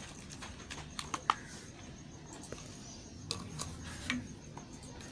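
Bars of soap being handled: scattered sharp clicks and crisp crackles, the loudest a little over a second in.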